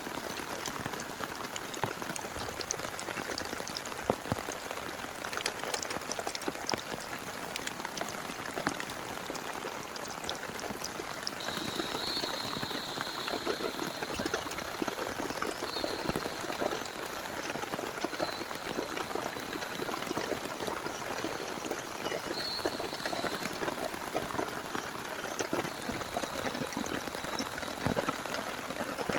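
Rain falling on a tent, a dense steady patter of many small drop ticks. From about twelve seconds in, a faint high thin tone comes and goes several times over the rain.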